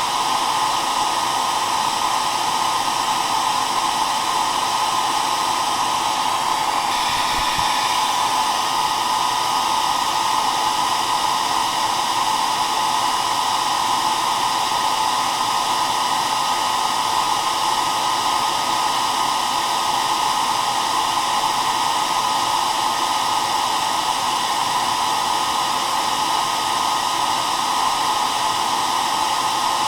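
Hair dryer running steadily: a continuous, even blowing noise with a few faint steady tones.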